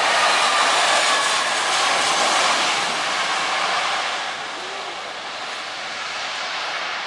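Jet airliner's engines passing close on landing approach: a loud rushing roar with a faint whine falling in pitch, easing off after about four seconds as the aircraft moves away.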